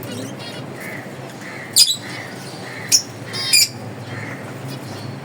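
Caged finches calling: three short, sharp, high-pitched calls stand out, about two, three and three and a half seconds in, over soft chirps repeated about twice a second.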